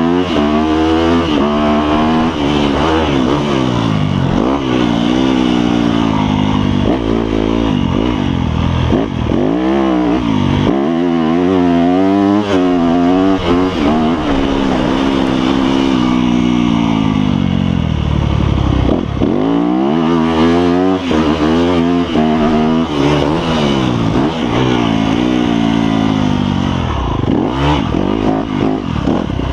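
Dirt bike engine on a motocross track, heard on board, revving hard and easing off again and again as the rider accelerates, shifts and brakes through the laps.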